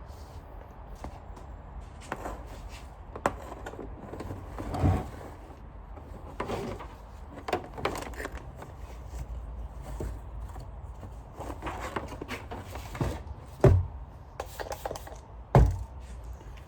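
Handling noises from vacuum cleaner parts being cleaned and moved about: scraping, rubbing and light clicks, with three louder knocks, one about five seconds in and two close together near the end.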